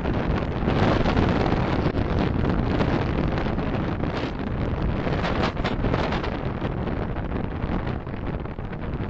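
Steady road and wind noise of a car driving, picked up by a dashcam's microphone.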